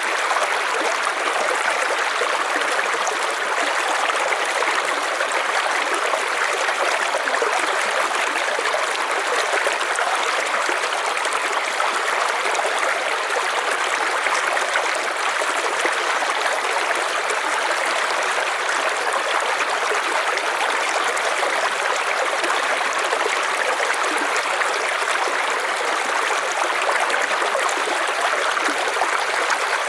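River water flowing over rocks: a steady rushing and trickling babble.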